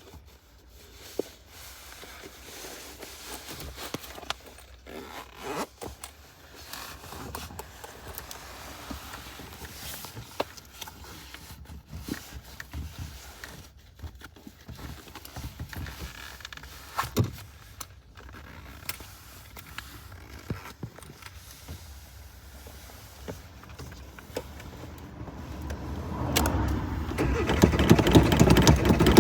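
Old car with scattered clicks and rattles from its controls and mechanism over a low hum, while it is being coaxed to start. About 26 s in, the engine grows much louder and keeps going.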